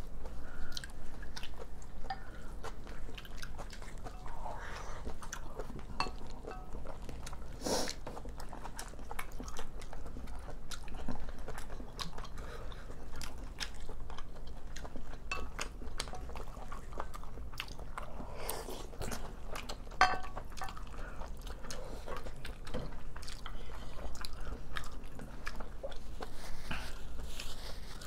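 Close-miked chewing and biting of two people eating rice with spicy stir-fried dishes and kimchi, with many small wet mouth clicks and an occasional sharper tap of a spoon or chopsticks on a ceramic bowl.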